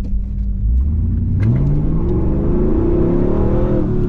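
1998 Pontiac Firebird Formula WS6's LS1 5.7-litre V8 accelerating hard through its automatic transmission. The engine note climbs steadily in pitch from about a second in and levels off near the end.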